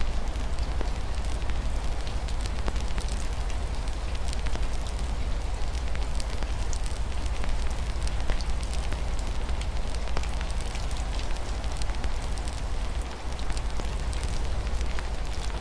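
Wood fire crackling with many small sharp pops, over a steady low rumble and an even hiss of rain falling on a window.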